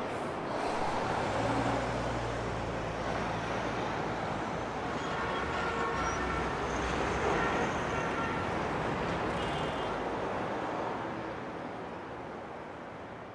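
Road traffic noise: a steady wash of passing vehicles with a low engine hum in the first few seconds and a few faint held tones in the middle, fading out near the end.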